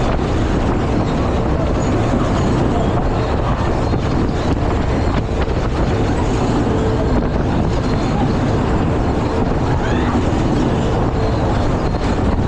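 Fairground ride in motion: a steady, loud rumbling noise with a faint humming tone underneath.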